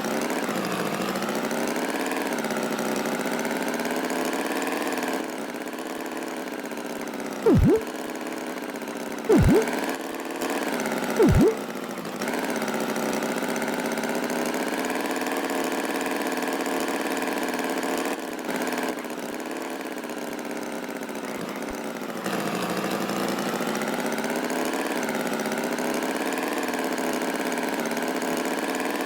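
Cartoon tractor engine sound effect running steadily, its pitch wavering slowly up and down. Three loud, very short sounds that drop sharply in pitch come about two seconds apart, a third of the way in.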